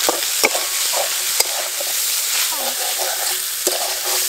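Spiced chicken sizzling steadily as it is sautéed in a metal kadai over a wood fire, while a spatula stirs and scrapes through it. There are a few sharp clicks of the spatula against the pan.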